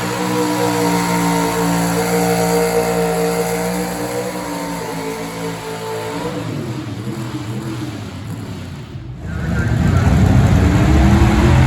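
Gas pickup truck engine running at steady high revs under load during a truck pull, fading away over a few seconds. About nine seconds in the sound breaks off and a louder, deeper sound builds up.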